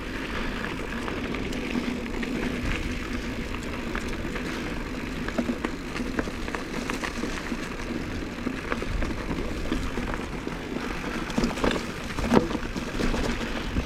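Mountain bike being ridden along a dirt and rock trail: a steady rolling noise with a constant low hum, and small clicks and rattles from the bike over the bumps.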